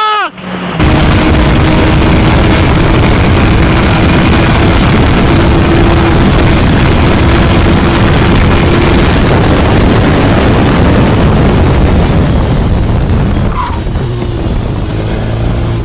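Motorcycle at speed, heard as a loud, steady rush of wind and road noise over the microphone with a faint steady engine note underneath. The rush eases off near the end.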